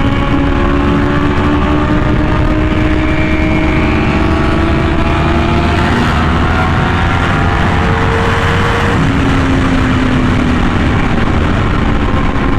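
Yamaha R1M's crossplane inline-four with an SC Project exhaust running hard at speed, its note climbing slowly, then dropping about nine seconds in on an upshift and climbing again, over heavy wind rush.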